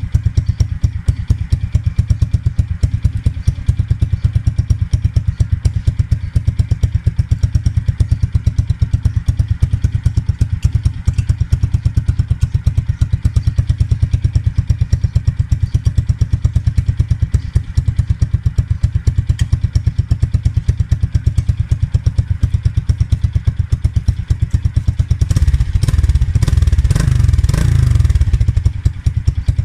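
Modenas Kriss 110 underbone motorcycle with an Apido Racing aftermarket exhaust, idling with a fast, even exhaust beat. About 25 seconds in, the throttle is opened and the engine revs up loudly for about three seconds, then drops back to idle.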